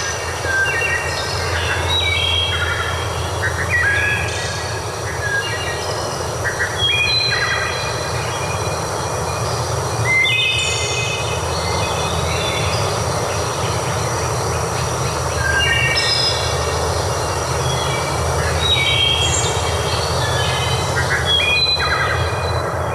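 Birds chirping in repeated short clusters of quick, stepped notes over a steady, loud rushing background noise.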